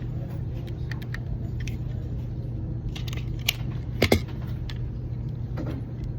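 Steady low mechanical hum, with a few light metallic clicks and two sharper clacks about three and a half and four seconds in.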